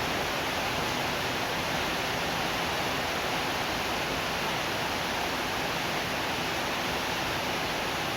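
Steady rain sound: an even, unbroken hiss with no single drops or thunder standing out.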